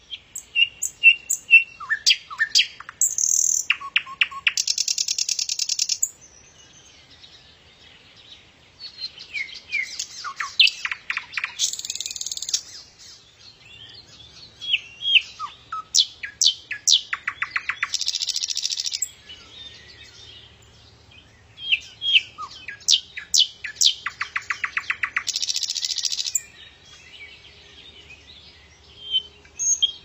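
A songbird singing the same song over and over, four times with pauses of a few seconds between: each song is a run of quick chirps and short whistles ending in a fast trill.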